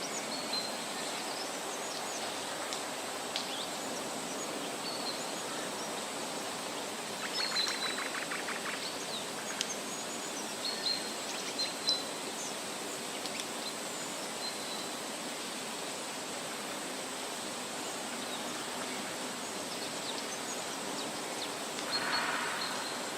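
Natural bush ambience: a steady hiss of background noise with scattered short, high bird chirps. A rapid rattling trill comes about seven seconds in, and a louder one near the end.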